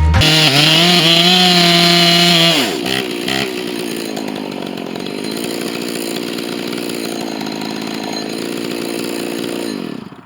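Husqvarna 268 chainsaw running at full throttle, then dropping in pitch and loudness about two and a half seconds in and labouring at lower revs in the cut, before winding down and stopping near the end as the saw gets stuck. The saw's muffler is loose, which makes it run louder.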